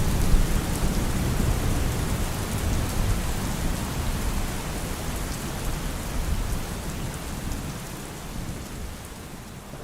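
Steady rain falling, with a low rumble of thunder that is strongest at the start and dies away; the whole sound fades out gradually.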